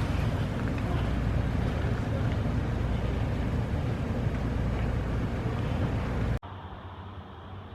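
Steady vehicle rumble with a hiss, like a car in motion. It cuts off abruptly about six seconds in to a quieter, steadier low hum.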